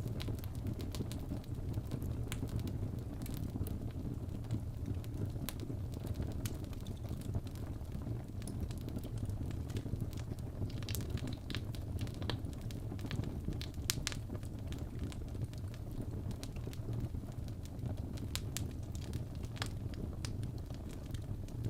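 Wood fire crackling in a fireplace: scattered pops and snaps over a steady low rumble.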